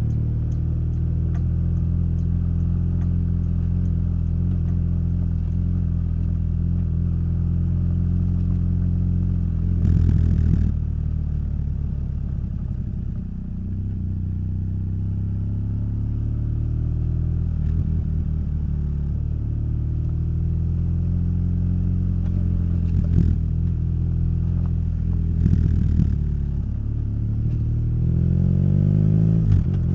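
Motorcycle engine and exhaust on the move, the engine note rising and falling with throttle and gear changes. There are a few brief rattly bursts, and the pitch climbs again near the end.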